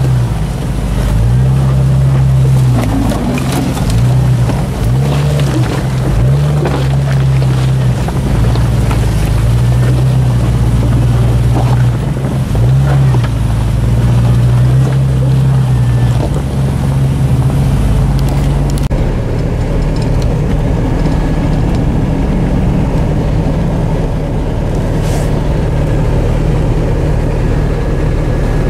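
Jeep Cherokee XJ engine pulling under load as the Jeep crawls over rocks, the throttle rising and falling in repeated surges, then running more steadily about two-thirds of the way through. Scattered clicks and crunches from the tyres on rock and gravel sound over it.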